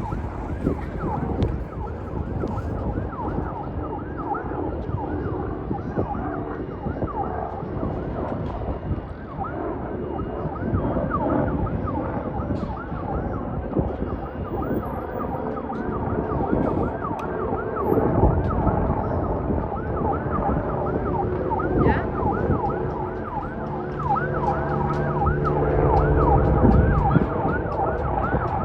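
Police siren yelping in fast, repeated up-and-down sweeps over a low, steady rumble.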